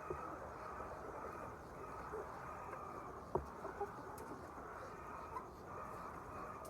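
Large poultry flock in a shed, many birds chirping and calling at once and blending into a steady din, with one sharp click about three and a half seconds in.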